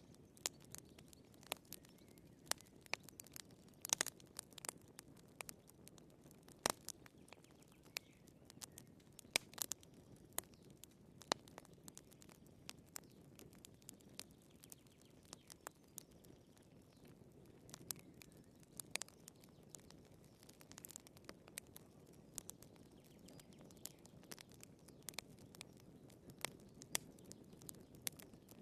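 Wood fire crackling: sharp irregular pops and snaps of burning firewood over a faint low rushing of the flames.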